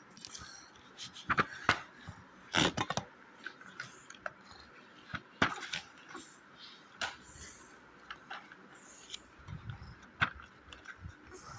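Handling noise: a few scattered knocks and clicks, the loudest a couple of seconds in, about five and a half seconds in, and about ten seconds in.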